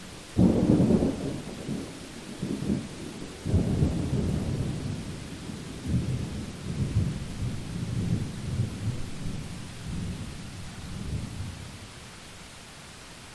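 Thunder: a sudden clap about half a second in, then rolling rumbles that swell again a few times and die away near the end, over the steady hiss of rain.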